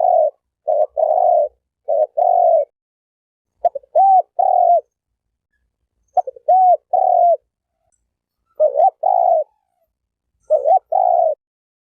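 Spotted dove cooing: short phrases of two or three coos repeated every second or two, some notes rising and falling in a hooked curve, with clean silence between phrases.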